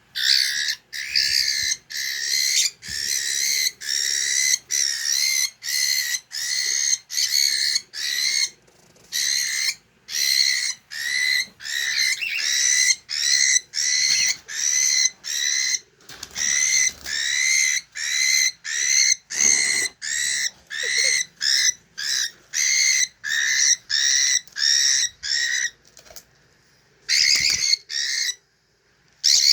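Cockatiel calling over and over, nearly two short, shrill, arching calls a second, with a few brief breaks and a pause near the end.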